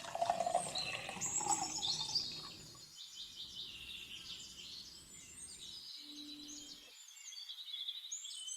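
Several birds chirping and singing in short, overlapping calls and trills, louder for the first two or three seconds and fainter after that.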